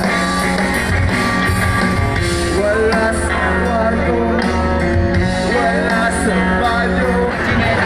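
Live rock band playing, with a singer's voice over electric guitar, bass and drums, heard from within the crowd.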